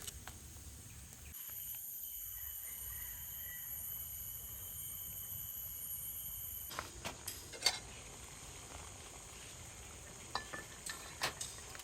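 A steady high hiss for several seconds that cuts off abruptly, followed by a scatter of light clinks and taps of utensils against cookware.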